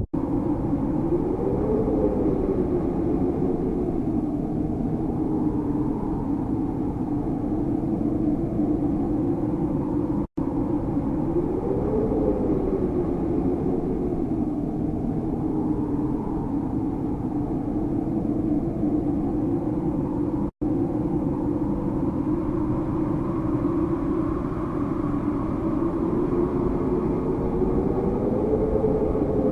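Strong howling wind, a low moaning whistle that rises and falls in pitch over a steady rush. The same stretch of recording repeats about every ten seconds, with a brief dropout at each join.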